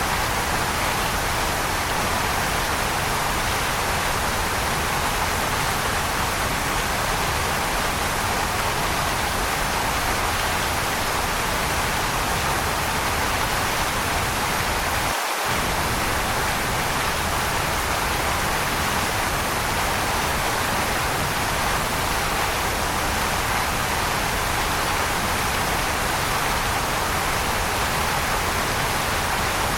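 Waterfall rushing in a steady, even wash of water noise, with a momentary drop in the low rumble about halfway through.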